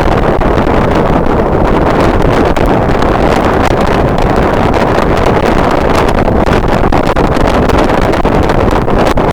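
Strong wind buffeting the microphone: a loud, steady, low rumbling roar with no pause.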